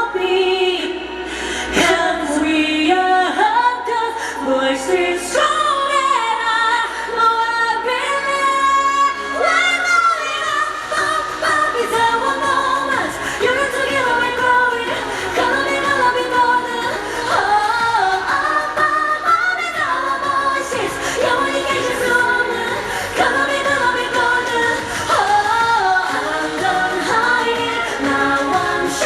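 A woman singing a pop song live with band accompaniment, including a long held note with vibrato about eight seconds in. The band's bass end fills in fully about ten seconds in.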